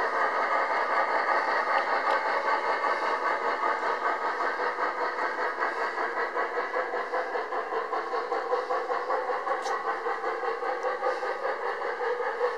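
A vehicle engine running steadily with a fast, even pulse.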